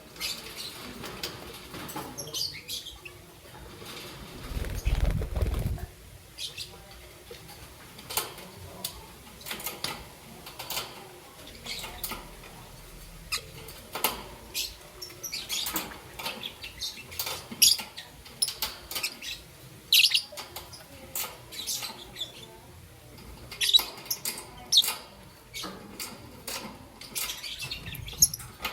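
Young peach-faced lovebird chirping in short high calls, with wing flaps and many scattered clicks and taps, and a low thump about five seconds in.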